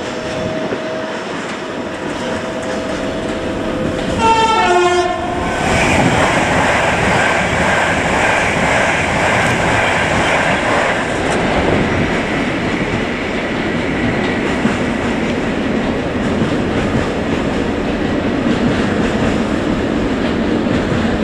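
A train horn sounds briefly about four seconds in, then a train runs past with steady wheel and rail noise.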